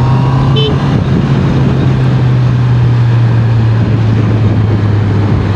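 Honda CBR650R inline-four engine running steadily under way, its note sinking slowly as the revs ease, over a constant rush of wind noise. A short high beep sounds about half a second in.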